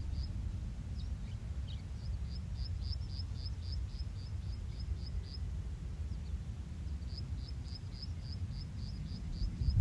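Low wind rumble on the microphone, with a small bird repeating a short, high chirp about four or five times a second in two runs, one a couple of seconds in and another from about seven seconds to the end.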